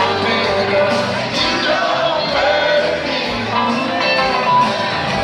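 Live rock band playing a song, with guitars and a singing voice over the band.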